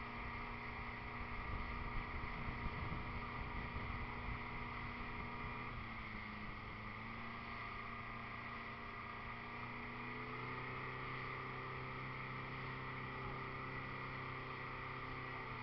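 Motorboat engine running steadily under way. Its pitch steps down slightly about six seconds in, with rough low rumbling noise a couple of seconds in.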